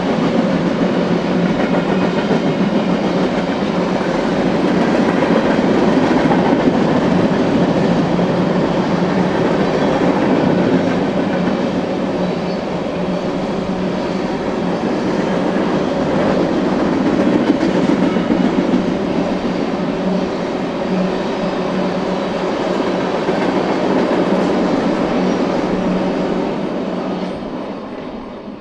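Freight train cars rolling past on the rails, a steady loud rumble of wheels with clickety-clack. It dies away over the last couple of seconds.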